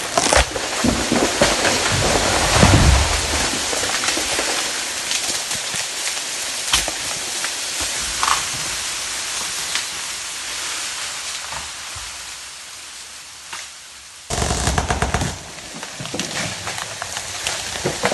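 Steady rushing noise with scattered sharp crackles and a few low thumps, fading gradually, then cutting abruptly about fourteen seconds in to a louder, crackling rush.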